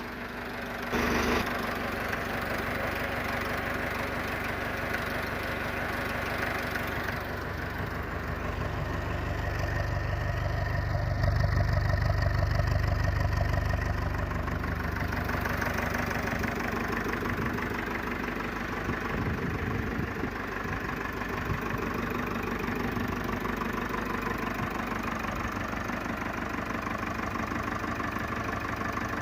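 Four-cylinder diesel tractor engine idling steadily. It grows louder and deeper for a few seconds in the middle, then settles back.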